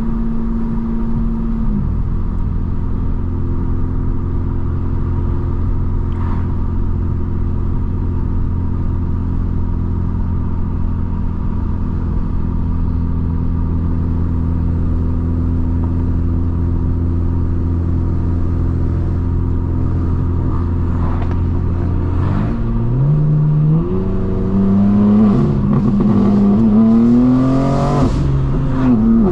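Straight-piped BMW M4 Competition's twin-turbo inline-six exhaust. The engine note steps down about two seconds in and then runs steadily at low revs. Near the end it accelerates hard, its pitch climbing and dropping back several times as it shifts up through the gears.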